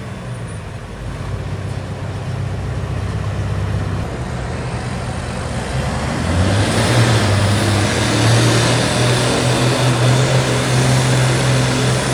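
Pulling tractor's engine running steadily, growing louder and fuller about six seconds in as it comes under more throttle or draws nearer.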